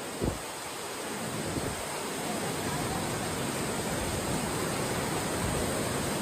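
River and falling water rushing steadily, an even wash of water noise that grows a little louder over the first couple of seconds. A brief low thump sounds just after the start.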